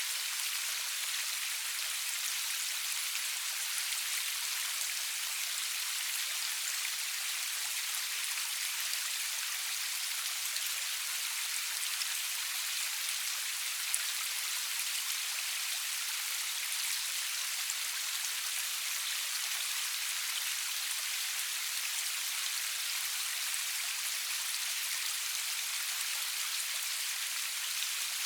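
Steady rain falling, an even hiss with the patter of individual drops and no thunder.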